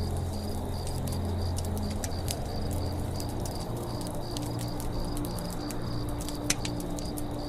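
Campfire crackling with scattered sharp pops, one louder pop about six and a half seconds in, over a cricket chirping in a steady rhythm of about three chirps a second and a low steady hum.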